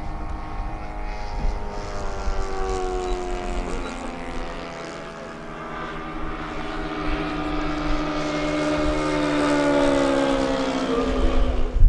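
Engine and propeller of a radio-controlled aerobatic model airplane (a 'Good Shot') in flight, one steady drone whose pitch slowly sinks and rises as the plane moves through its manoeuvres. The drone grows louder about ten seconds in as the plane comes closer, then drops away near the end.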